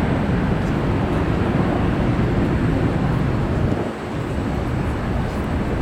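Jet airliner engines running, a steady rumbling noise strongest in the low range that dips briefly about four seconds in.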